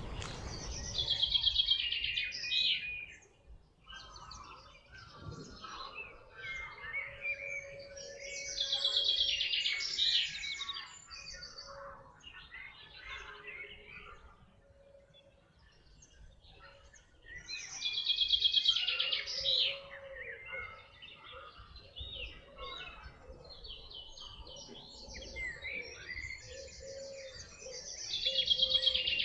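Forest birdsong: a songbird sings loud, rapid trilled phrases, one roughly every nine seconds, with fainter chirps of other birds between them.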